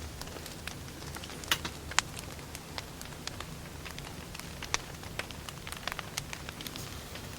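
Wood fire burning: irregular sharp crackles and pops over a low steady rumble, with a couple of louder pops about one and a half and two seconds in.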